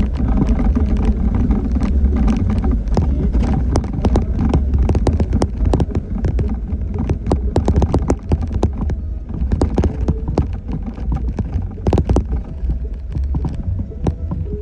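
2014 Jeep Wrangler Unlimited Rubicon driving slowly over a rough trail: a steady low rumble with frequent knocks and rattles as the suspension and body take the bumps.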